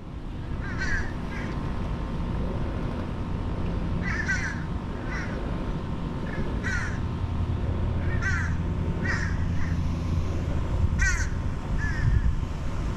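A bird calling about ten times in short, separate calls at uneven spacing, over a steady low background noise.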